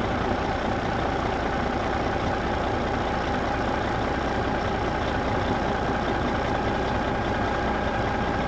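Steady engine-like running noise with a constant mid-pitched hum, unchanging in level and pitch, like an idling truck.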